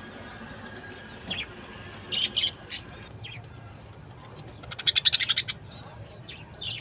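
Small birds chirping in short, high notes, with a fast chattering rattle of about ten notes in under a second near the middle.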